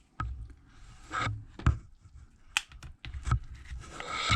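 A few scattered light clicks and taps of small tools being handled on a repair bench, with faint rubbing between them.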